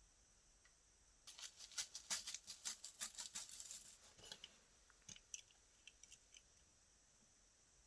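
Slime being worked by hand, giving a dense run of crackly clicks and pops for about three seconds, then a few scattered clicks.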